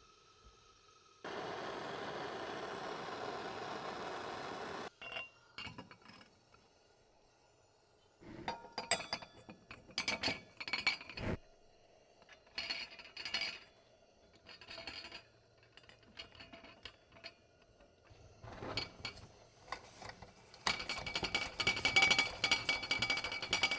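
A steady hiss lasting a few seconds that starts and stops abruptly, then scattered clicks and clinks of small metal and glass parts being handled, turning into rapid clinking near the end.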